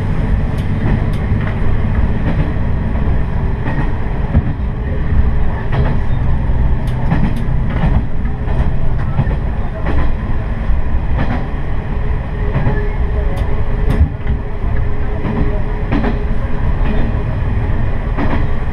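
Noto Railway diesel railcar running along the line: a steady rumble of engine and wheels, with scattered sharp clicks of the wheels over the track.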